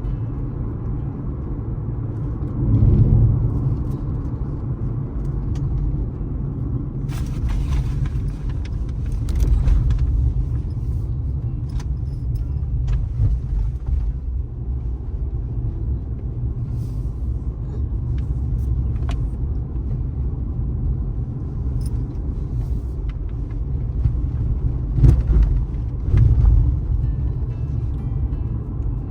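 A car driving at highway speed, heard as a steady low road and engine rumble that swells briefly a few times. A few short knocks and rattles sound over it.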